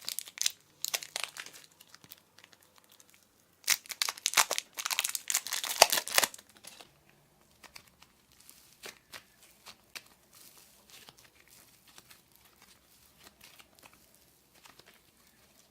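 Glossy slime being worked by hand with crunchy add-ins, crackling and crinkling in dense bursts. The loudest stretch comes about four seconds in and lasts a couple of seconds, then it settles into faint scattered clicks and pops.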